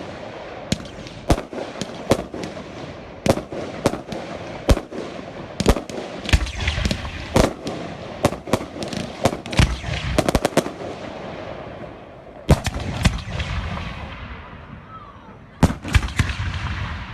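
Fireworks going off: a rapid, irregular run of sharp bangs with crackling between them. The bangs thin out after about twelve seconds, then a short cluster of bangs comes near the end.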